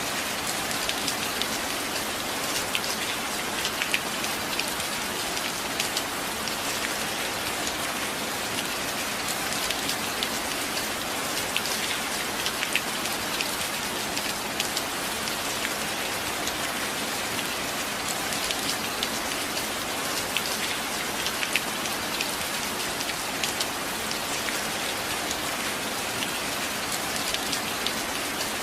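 Steady rain falling on a surface, an even hiss of rainfall with many individual drops ticking through it.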